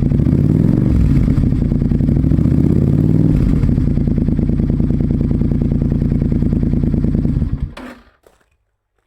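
Suzuki Intruder Classic 400 V-twin with a Kentec 2-into-1 aftermarket exhaust, with a low note, revved up and down twice, then idling steadily until the engine is switched off near the end.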